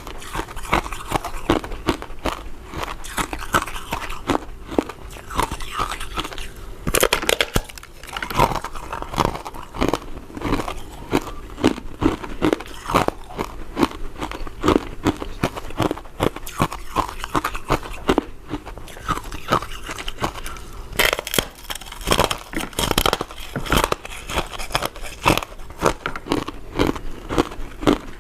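Close-miked chewing and biting of soft, powder-coated chewy mint sweets: a steady run of sticky, wet mouth clicks and crackles, a few per second. Louder bites come about seven seconds in and again around twenty-one seconds.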